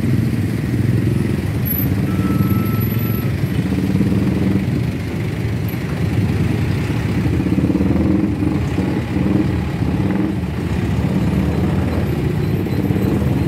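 Road traffic with heavy diesel vehicles passing close by, their engines running with a steady hum that rises and falls.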